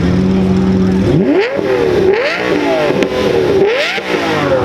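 Car engine idling briefly, then revved hard several times, its pitch climbing steeply and dropping back each time, with a long falling wind-down near the end.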